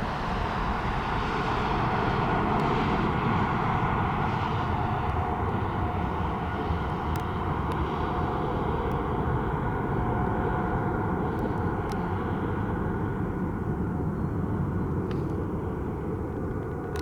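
Jet noise from an SAS Airbus A320neo's CFM LEAP-1A engines at high power on departure. A steady rush with a faint whine, loudest a few seconds in, then slowly fading as the aircraft moves away.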